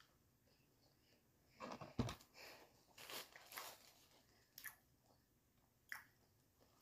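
Quiet chewing of crispy fried chicken: a few short crunches and mouth sounds spread through, with a small knock about two seconds in.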